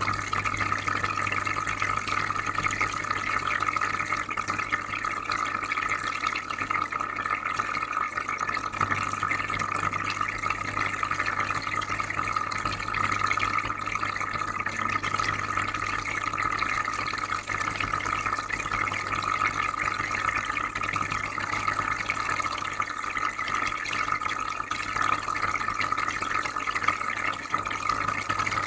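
Aquarium filter running, with steady, gentle bubbling and trickling water over a low, even hum.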